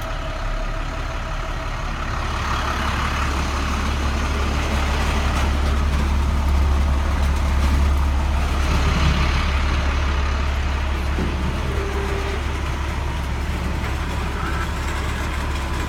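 International DT466 inline-six diesel idling steadily while the truck's electric salt spreader runs, its motor noise laid over the engine; the sound grows a little louder over the first half.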